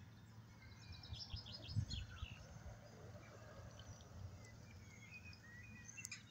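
Small birds chirping, with a rapid run of high notes about a second in and a few more chirps near the end, over a faint low outdoor rumble.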